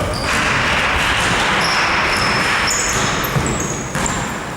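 Basketball game play on an indoor court: a basketball bouncing, and sneakers giving many short high squeaks on the floor, over a steady hiss of hall noise.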